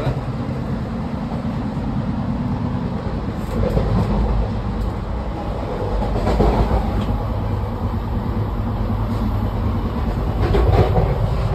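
Inside an Indian Railways sleeper coach on the move: a steady low rumble of the wheels on the rails, with some faint clatter.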